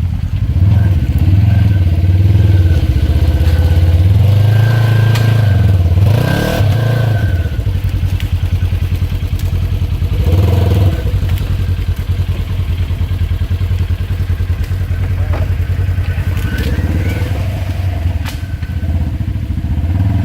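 Polaris RZR side-by-side engine running and revving in repeated surges, easing off and picking up again, with a few scattered knocks and clatter as the machine is worked against a tree to push it down.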